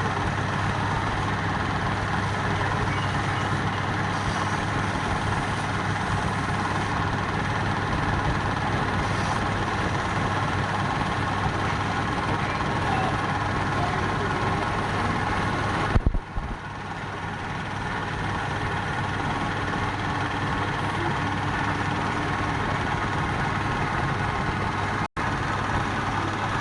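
Wood lathe running steadily: a constant motor hum under an even rushing noise, with a short dip and jolt about two-thirds of the way in.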